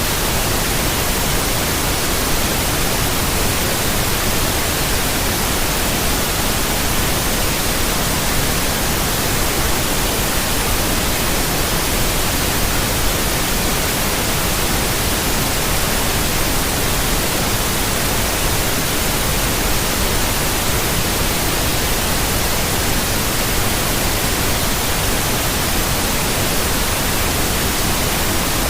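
Steady white noise: an even, unbroken hiss across all pitches that does not change.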